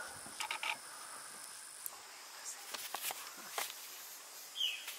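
Rainforest insects: a steady high-pitched insect drone, with scattered short sharp clicks and one brief chirp near the end.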